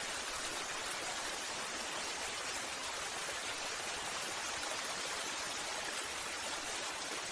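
Waterfall: a steady, even rush of falling water with no breaks or distinct splashes.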